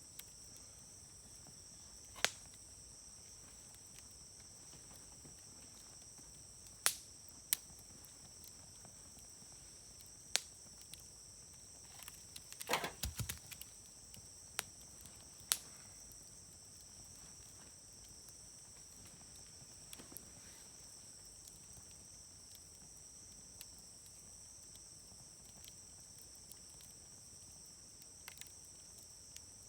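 Wood fire burning in a Uniflame fire grill, with sharp, scattered pops and crackles, a quick cluster of them about halfway through. A steady high insect chirring runs underneath.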